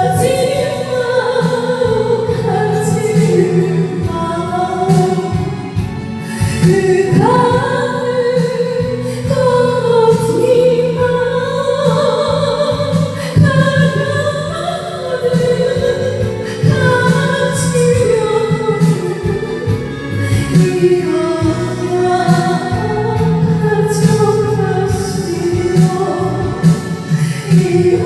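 Korean trot ballad performed over a backing track: a voice sings a slow melody with vibrato over steady accompaniment.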